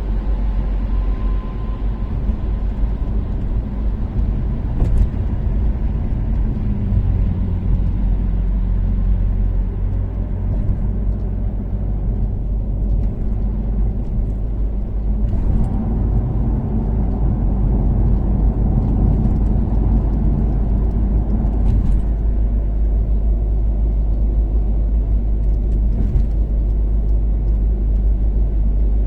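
Toyota Caldina's turbocharged 3S-GTE four-cylinder running at a steady expressway cruise under a continuous low rumble of road and tyre noise. The engine note rises and falls a little, and a few faint ticks come through, about five, fifteen, twenty-two and twenty-six seconds in.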